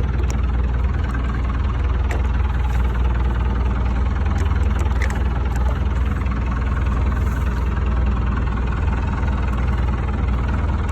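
A fishing boat's engine idling with a steady low hum, with a few light clicks over it.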